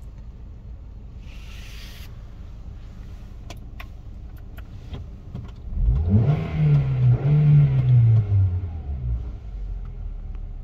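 Hyundai i10's 1.2-litre four-cylinder petrol engine idling, then revved up a little over halfway in. The revs are held for about three seconds and then drop back to idle.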